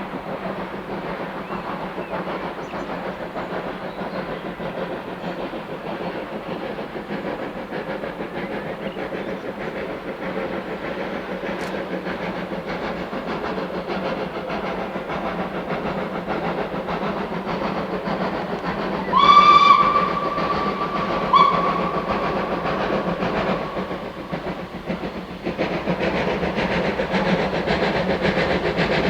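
A steam train running along the line with a steady rumble. Its locomotive's steam whistle sounds a blast of about two seconds, then a short second blast. The running sound swells near the end.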